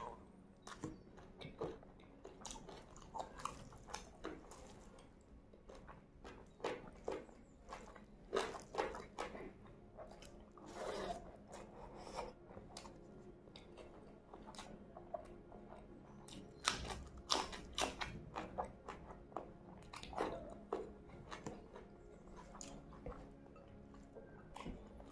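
Close-up mouth sounds of a person chewing and biting mutton and rice eaten by hand, with irregular crunches and crackles. The sounds come in uneven bursts, louder about a third of the way in and again past the middle.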